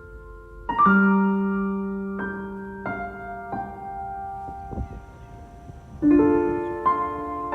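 Background piano music: slow, sustained notes and chords struck about once a second, each ringing on as it fades.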